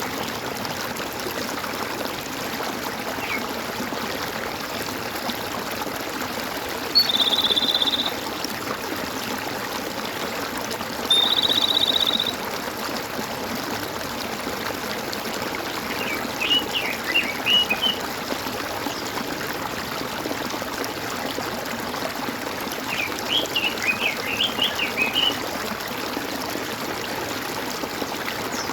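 Stream water gurgling steadily. Over it come two short, high, buzzy trills, each about a second long, then later two bursts of quick chirping bird notes.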